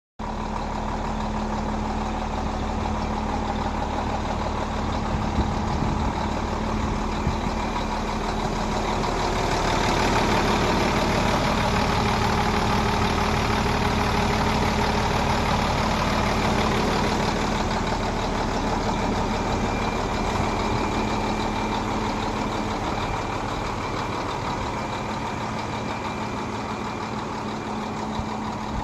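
Truck engine idling steadily, with a constant hum, getting a little louder around ten seconds in.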